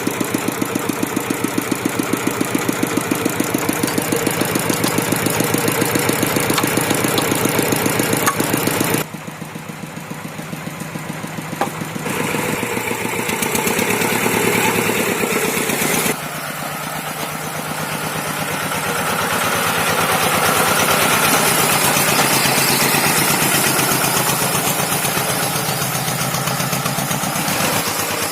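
Rice-field tractor engine running steadily with an even pulsing beat while levelling a paddy, its level dropping and rising abruptly a few times.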